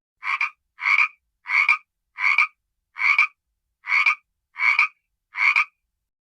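An animal's short call repeated eight times at an even pace, about one call every 0.7 s.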